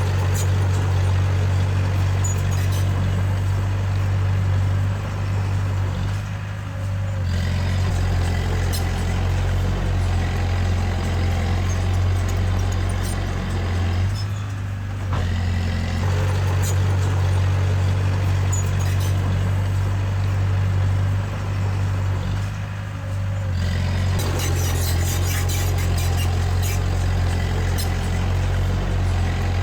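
Diesel engine of a Komatsu D20A crawler bulldozer running under load while pushing soil. Its steady low drone eases off briefly three times, about every eight seconds, with faint clinks over it.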